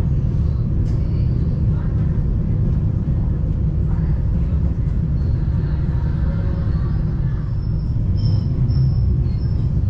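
Steady low rumble of a moving vehicle, even and unbroken, with a faint high whistle-like tone in the last couple of seconds.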